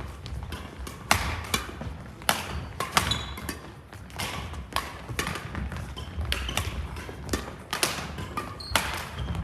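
Badminton doubles rally: sharp, irregular racket strikes on the shuttlecock mixed with footfalls on the court floor.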